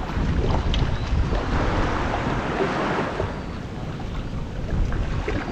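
Wind buffeting the microphone in gusts, with a steady rush of sea water behind it.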